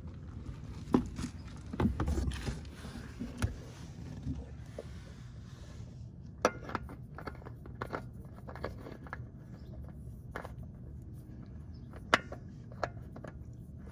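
Scattered metallic clicks, knocks and scraping as the old spin-on oil filter is handled and fitted back onto its mount by hand, with a stretch of scraping about two seconds in and a few sharp clicks later.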